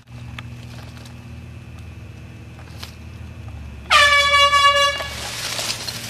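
Handheld air horn blasting once, a single loud steady blare lasting about a second, starting about four seconds in. Before it a low steady hum runs underneath.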